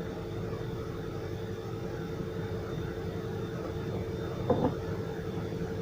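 A steady mechanical hum with a constant mid-pitched tone, like a fan or appliance motor running, with one brief faint sound about four and a half seconds in.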